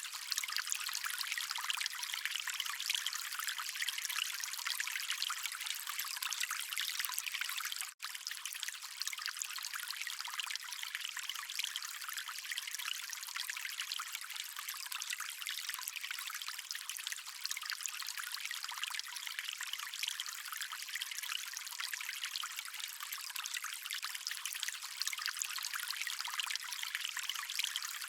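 Stream water flowing steadily, with a split-second dropout to silence about eight seconds in.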